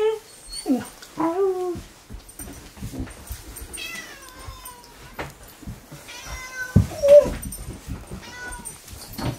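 A cat meowing repeatedly: several short meows and one longer meow that falls in pitch about four seconds in.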